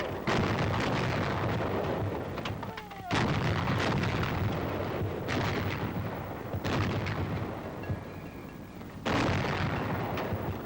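A battery of 90 mm antiaircraft guns firing: five heavy reports a few seconds apart, each one fading out slowly.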